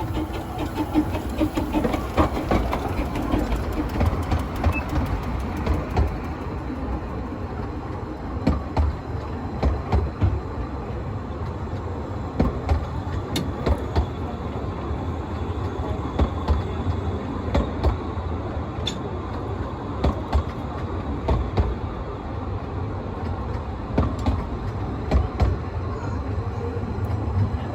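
A 15-inch-gauge train running along the line: a steady rumble with repeated clicks and knocks as the wheels pass over the rail joints.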